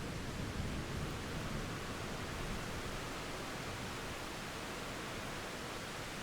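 Steady rain falling during a thunderstorm, a dense even hiss. A low rumble of distant thunder dies away in the first second or two.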